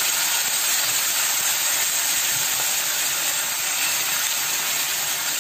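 Ginger-garlic paste, green chillies and curry leaves sizzling steadily in hot oil in a kadhai: a phodni (tempering) being fried.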